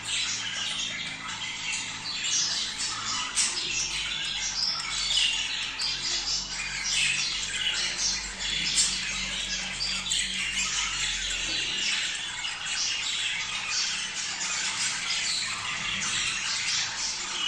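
A flock of budgerigars chattering and squawking without a break, many short chirps overlapping, over a faint steady low hum.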